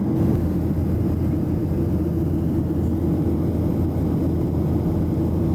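Steady in-flight cabin noise of a Boeing 737-700: an even, low rush of airflow and engine noise with no change.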